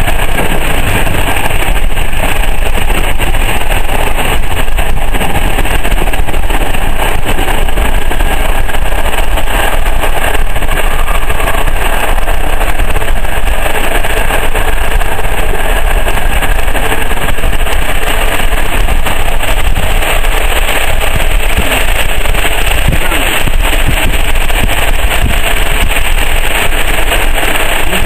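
Passenger coach of a locomotive-hauled train running at speed: a loud, steady rush of wheels on rail and air, with no breaks.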